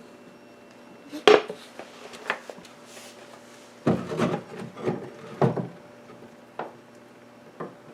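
Wooden knocks and scraping from handling the parts of a wooden pump organ: one sharp knock about a second in, then a cluster of knocks and rubbing sounds a few seconds later.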